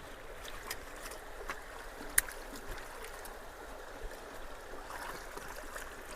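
Creek water running steadily into a culvert inlet that is being cleared of debris, with a few small sharp ticks, the clearest about two seconds in.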